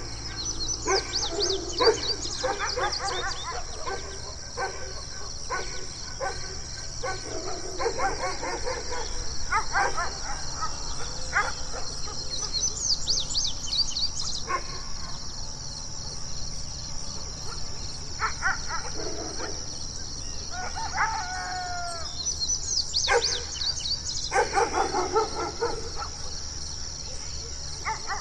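Dogs barking in short bouts, with birds chirping high above at intervals and one drawn-out call falling in pitch a little after the middle.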